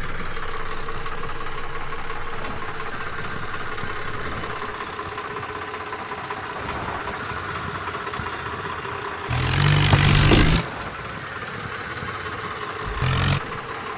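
Ford tractor's engine running steadily, with two louder bursts, a long one about ten seconds in and a short one near the end.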